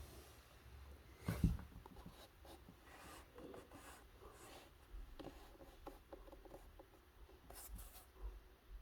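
Faint rustling and scratching handling noise in a small room, with a soft knock about a second and a half in and a few light bumps near the end.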